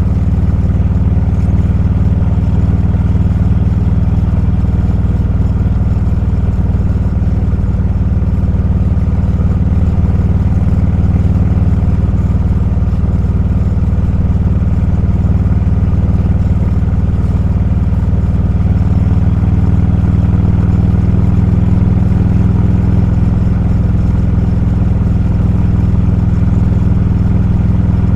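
Motorcycle engine running at a steady cruise while riding, a constant low drone that shifts slightly in pitch about two-thirds of the way through.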